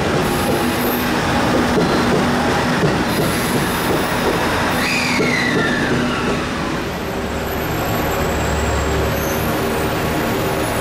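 Electric commuter train running past over the rails with wheel clatter. About five seconds in, a whine falls in pitch as the train moves away, leaving a steadier, quieter rumble of rail traffic.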